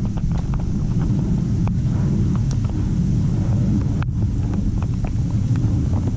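Strong wind buffeting the microphone: a loud, steady low rumble with a few faint ticks.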